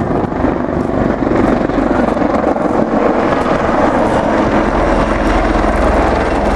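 Helicopters flying a display pass overhead, with a steady, loud rotor and engine noise that does not rise or fall.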